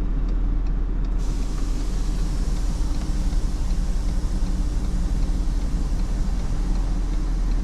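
Vehicle engine idling steadily with a low drone, heard from inside the cab; a steady hiss joins in about a second in.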